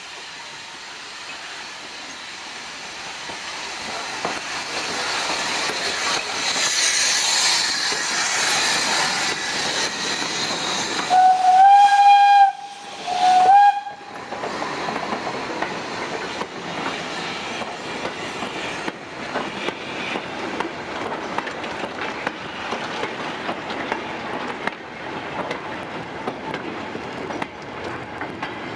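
Steam train running by, its steam hiss and noise building over several seconds. The locomotive's whistle sounds twice about halfway through, a long blast then a short one, followed by the wheels clicking over the rail joints.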